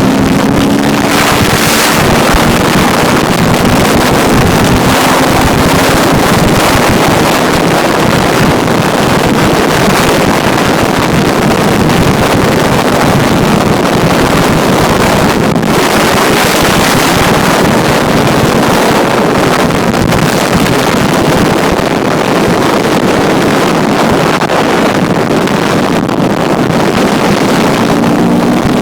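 Yamaha 250 dirt bike engine running under way, its pitch rising and falling with the throttle near the start and end, mostly buried under heavy wind noise buffeting the microphone.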